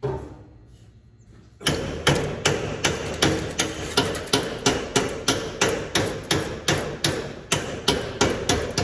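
A hammer striking metal: one knock at the start, then from about two seconds in a fast, steady run of blows, about three a second, with the metal ringing faintly between strikes.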